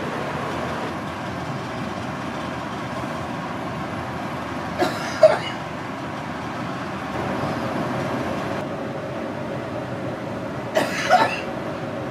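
Steady rushing noise of a cruise yacht underway at sea, its engines and passing wind and water running evenly. Two short sharp sounds cut through it, about five seconds in and again near the end.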